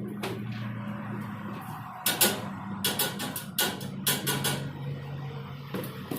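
A series of sharp knocks, about a dozen in irregular clusters starting about two seconds in, over a steady low hum.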